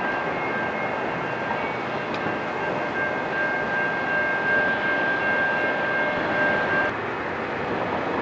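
Approaching Norfolk Southern intermodal freight train: a steady rumble from its diesel locomotives. Several steady high tones sound over it and cut off suddenly about seven seconds in.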